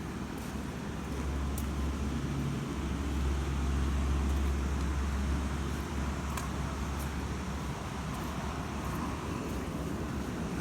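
Low rumble of a motor vehicle passing at a distance, swelling over a few seconds and fading away, with a few faint clicks.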